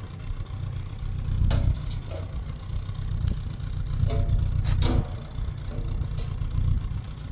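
Steady low rumble of a running vehicle, with a few brief clicks and short pitched sounds over it.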